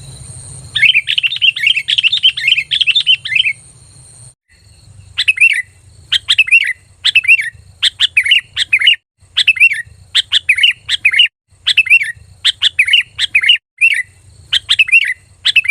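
Sooty-headed bulbul calling loudly: a fast chattering run of notes, then after a short pause a steady string of short, falling phrases repeated about twice a second.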